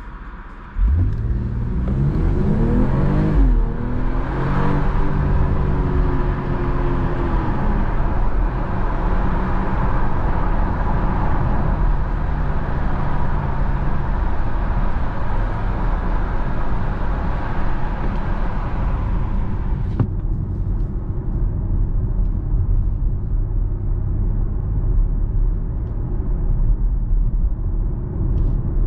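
BMW X4 M40i's B58 turbocharged straight-six accelerating hard, its pitch climbing in two quick sweeps as it shifts up, then settling into a steady cruise under tyre and road noise. About two-thirds of the way through, the higher hiss drops away abruptly and the engine drone carries on.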